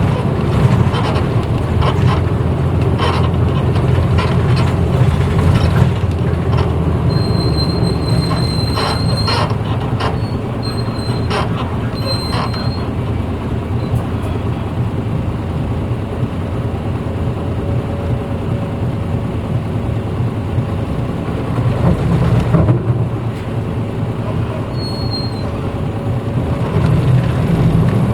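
Interior running sound of a 1994 Hino Blue Ribbon U-HT2MPAA city bus under way: a steady low engine drone with body rattles and clicks. A few brief high squeaks come in the middle, and the engine note picks up and rises again near the end.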